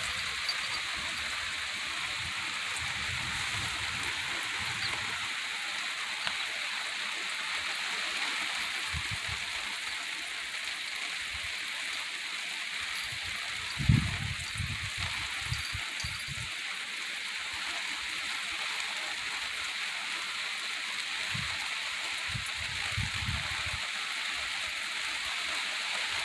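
Steady rain falling in a heavy, soaking downpour, an even hiss throughout. A few brief low rumbles cut in, the strongest about halfway through.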